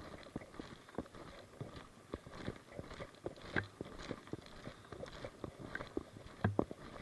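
Footsteps, irregular and about one or two a second, as a player moves over the ground.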